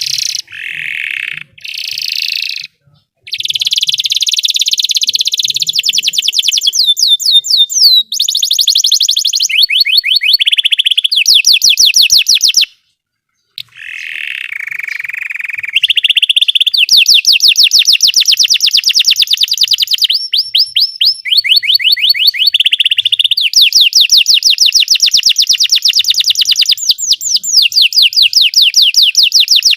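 Belgian canary singing a long, loud song of fast, high trills and rolls, changing phrase every second or two, with a short break about thirteen seconds in.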